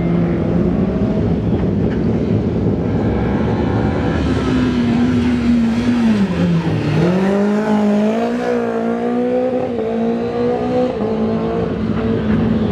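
Rally car engine running hard at high revs. About six seconds in, its pitch drops as the throttle comes off, then it climbs again in steps as the car accelerates back up through the gears.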